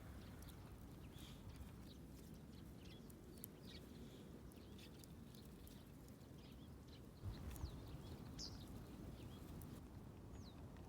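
Faint outdoor ambience with scattered short bird chirps, and a couple of brief knocks about seven seconds in.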